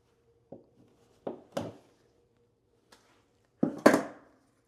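Sharp knocks of work on a plywood subfloor, six in all at uneven intervals, each ringing briefly, with the loudest two close together near the end.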